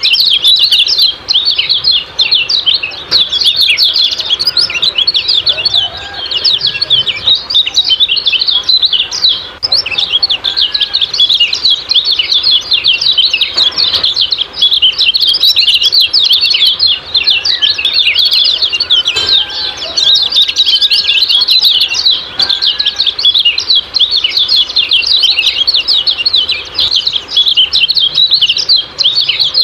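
Kecial kuning songbird giving its rapid, unbroken 'ciak-ciak' chattering song: a dense stream of high, quick chirps and twitters, with a few lower, softer whistled notes in the middle.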